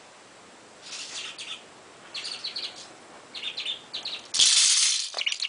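Budgie chattering in short bursts of quick, scratchy chirps, with a loud hissing rush for about half a second near the end.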